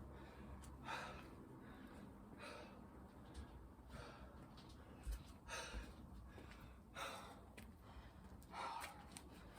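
A person breathing hard from exertion, a faint noisy breath roughly every one and a half seconds.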